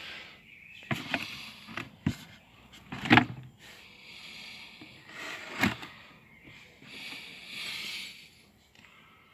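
Several sharp knocks and clatters from things being handled, the loudest about three seconds in and again past five and a half seconds, with short stretches of soft hiss between them.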